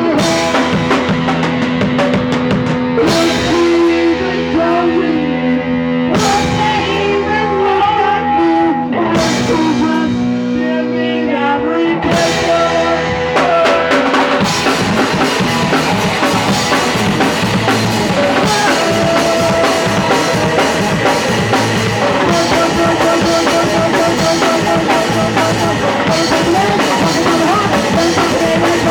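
Live punk rock band playing loudly: distorted electric guitar, bass and drum kit. Heavy accented hits come about every three seconds in the first part, then the band settles into steady full-band playing about halfway through.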